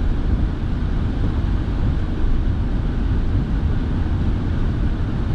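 Steady low rumble of a moving car heard from inside the cabin: engine and tyre noise with the heater fan blowing.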